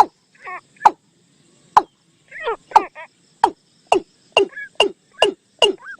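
Bird-decoy recording of นกตูม calls played back: short calls, each starting with a sharp click and falling in pitch, repeated in a quickening series.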